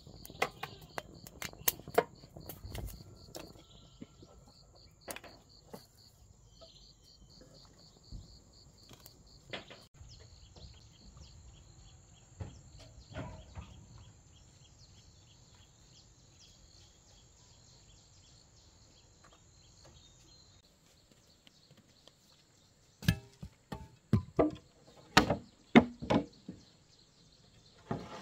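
Insects, crickets among them, chirping steadily, with scattered sharp knocks and a quick run of loud knocks near the end.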